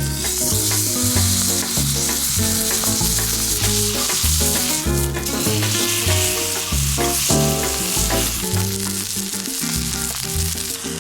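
Steak searing in a hot pan, a loud steady sizzle of fat and juices, with background music and its steady beat underneath.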